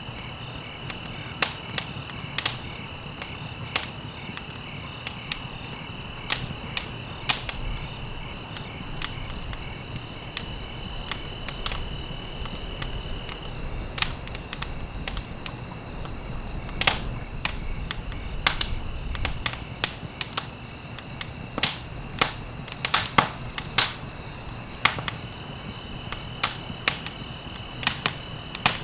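Wood fire crackling and popping in irregular sharp snaps over a low rumble, with a steady high-pitched trill behind it that drops out for a stretch in the middle and comes back near the end.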